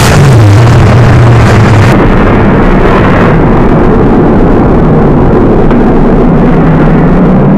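Maximum Destruction monster truck's supercharged V8 running very loud through its run. The revs drop about two seconds in, then climb steadily toward the end.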